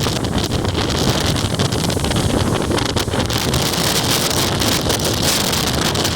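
Typhoon-force wind from Typhoon Haishen buffeting the microphone in a loud, continuous roar of gusts, with a hiss of wind-driven rain.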